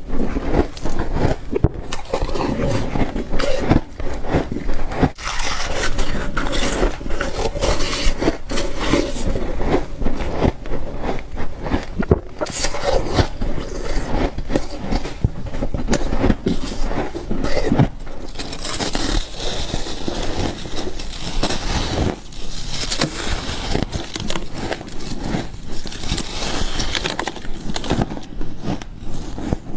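Frost being bitten and chewed: a continuous dense crunching and crackling, brighter and hissier for several seconds in the second half.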